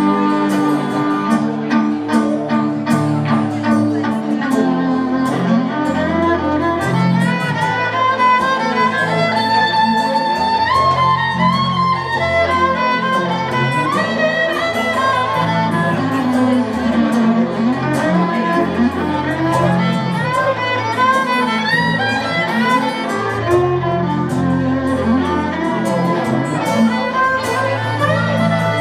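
Live instrumental break of a song: a violin plays a gliding melody over a steady low accompaniment.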